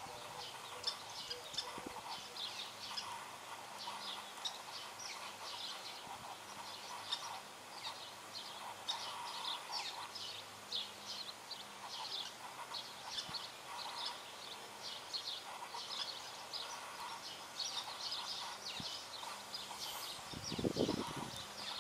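Small birds chirping, a steady run of short high chirps over a background hum. A brief, louder low sound comes about a second before the end.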